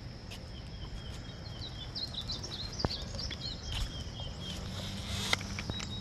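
Birds chirping outdoors in a quick run of short calls about two seconds in, over a low rumble of outdoor noise. There are two sharp clicks, one near the middle and one near the end.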